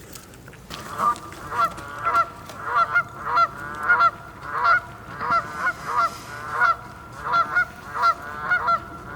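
Goose honking: a steady run of repeated honks, about two to three a second, starting about a second in.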